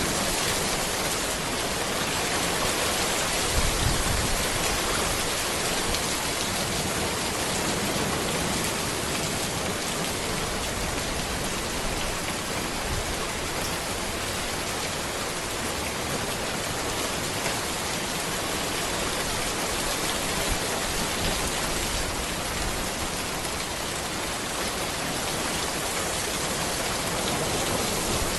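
Steady rain falling on a road, an even dense patter of drops, with a brief low rumble about four seconds in.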